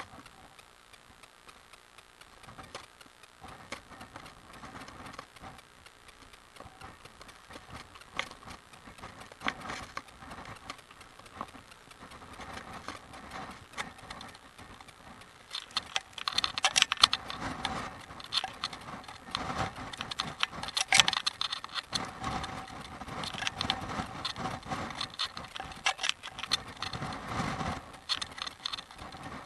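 A bicycle rattling and clattering as it is ridden over a rough road, with dense irregular knocks and jangles. The rattling grows louder and busier about halfway through.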